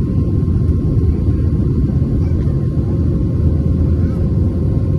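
Airbus A320 cabin noise in flight: a steady low rumble of engines and airflow heard from inside the passenger cabin.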